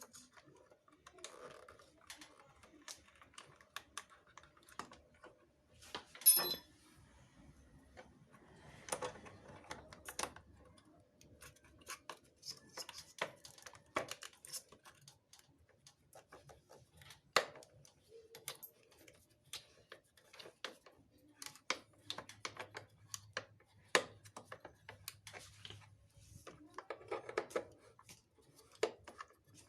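Irregular small clicks, taps and clinks of motorcycle parts and hand tools being handled as the battery compartment is put back together and fastened. A sharper metallic clink rings briefly about six seconds in.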